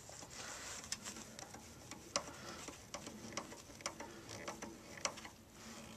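A clamp on rubber tubing being tightened down: faint, irregular clicks from the clamp and tool, about one a second.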